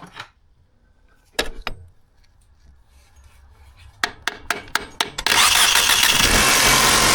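A handful of sharp knocks as the faulty starter of a 2012 Mercedes C250 is struck to free it. Then, about five seconds in, the 1.8-litre turbocharged engine catches and runs loudly: a starter that only works after being banged on is failing.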